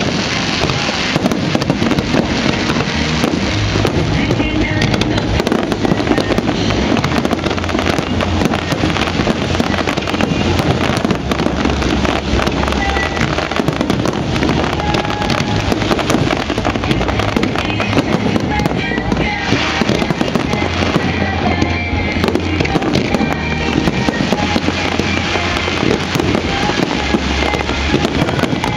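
Fireworks barrage fired at close range: a dense, continuous crackling and popping of bursting shells, with deep booms coming every second or so.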